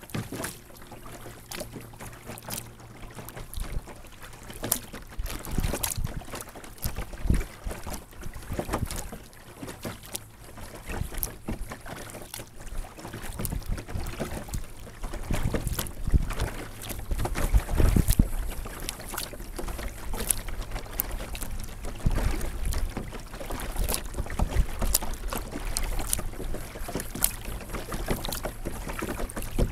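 Water splashing and lapping around a sit-on-top kayak, with irregular small knocks and clicks. Gusts of wind rumble on the onboard action camera's microphone, strongest about halfway through.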